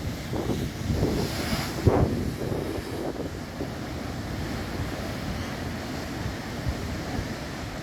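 Cantabrian Sea surf breaking and rushing against the coast, with wind buffeting the microphone. The gusts and a hissing wash are strongest over the first two seconds or so, then it settles into a steadier rush.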